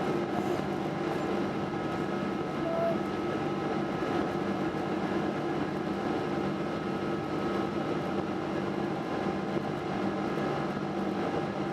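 Steady engine noise of a Boeing 777-200: an even rush with a few steady tones, holding level with no spool-up.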